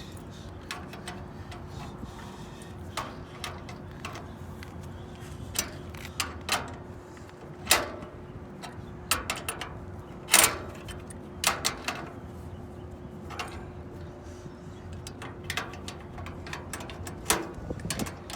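Irregular metallic clicks and knocks of hand-tool work on a condenser fan motor, over a steady faint hum that stops near the end.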